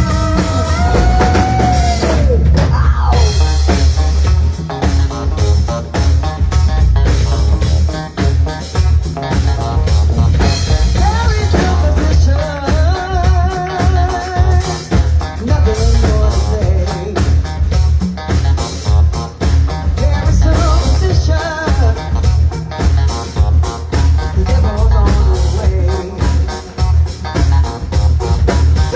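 Rock band playing, with a drum kit keeping a steady beat over heavy bass and guitar.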